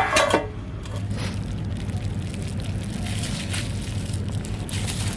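Steady sizzling from a kadai of food cooking over a wood fire, with faint crackles.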